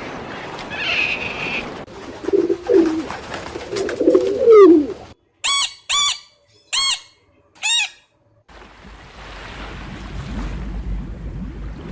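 Animal calls: a run of low, wavering coos, followed by four short separate calls, each rising and falling in pitch.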